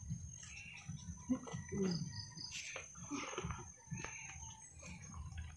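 Birds chirping and calling in short scattered notes over a faint, steady high-pitched tone.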